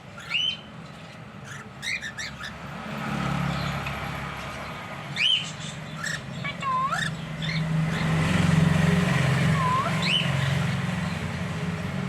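Cockatiels giving short whistled calls, each a quick swooping note, about five over these seconds. Under them runs a low rumble like a passing vehicle, swelling past the middle and loudest about two-thirds through.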